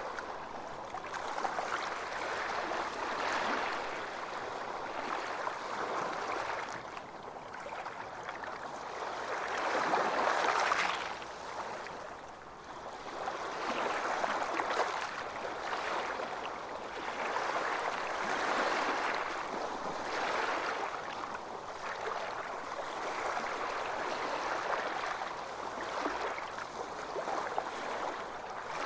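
Ocean waves washing onto a beach, the surf swelling and ebbing every few seconds, one wave louder about ten seconds in.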